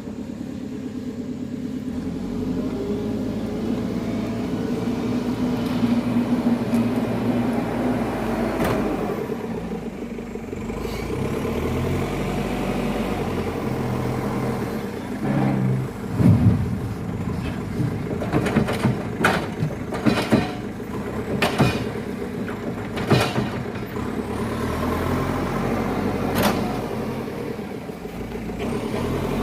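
Dump truck's diesel engine running steadily. Through the second half comes a run of sharp knocks and bangs, several in a row, louder than the engine.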